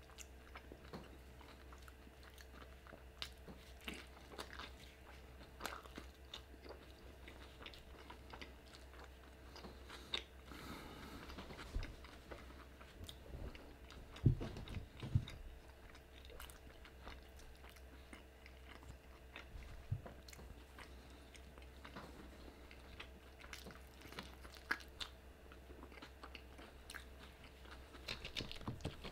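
A person chewing a mouthful of fish burrito, with faint scattered mouth clicks and smacks and a louder bite near the end.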